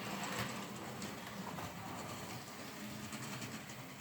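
Small model railway locomotive running round a track: a faint steady rolling with light clicking of the wheels over the rail joints.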